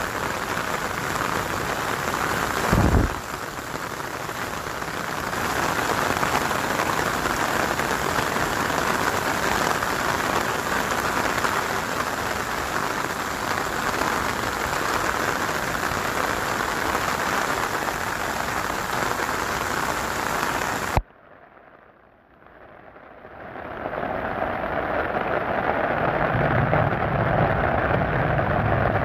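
Heavy rain falling steadily and drumming on an umbrella overhead. There is a brief knock about three seconds in. About two-thirds of the way through, the sound cuts out suddenly and fades back in over a couple of seconds, with a low rumble underneath near the end.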